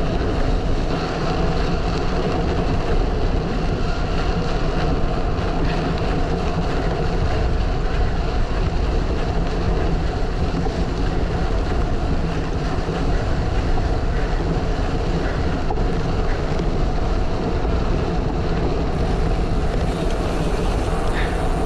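Strong wind buffeting the microphone on a moving gravel bike: a loud, steady, heavy rumble that does not let up, with the rolling noise of the ride mixed into it.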